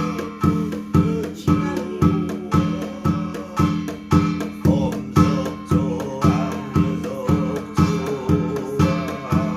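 Korean shamanic ritual music: a drum beats steadily about twice a second under a wavering, reedy melody from a piri, a Korean double-reed pipe.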